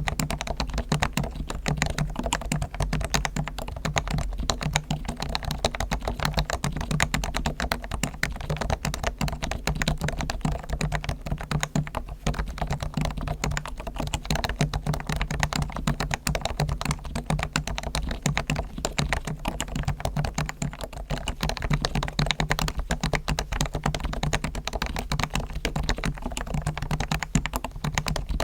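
Fast, continuous typing on a Realforce R1 Topre electro-capacitive keyboard that has been fully lubricated with Krytox and damped, so the keystrokes come as dense, rapid, muted clacks.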